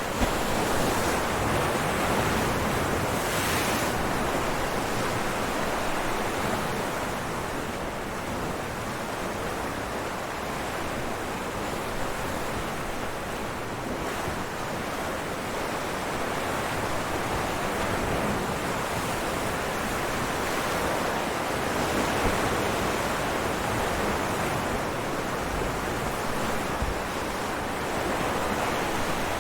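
Ocean waves breaking on rocks: a continuous rush of surf that swells and eases every several seconds.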